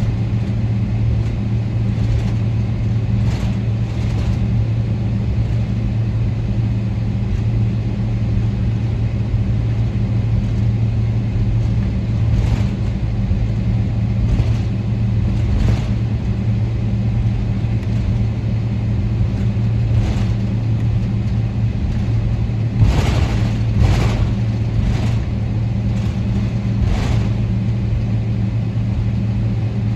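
Steady low engine hum and rumble inside the cabin of a Boeing 777-300ER, its GE90 engines running, with occasional light knocks and bumps, a few of them close together near the end.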